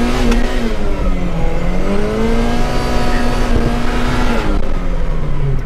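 Turbocharged Toyota 3S-GTE four-cylinder revved in place and held at high revs near the shift point, dipping briefly about two seconds in and climbing back, then dropping toward idle near the end.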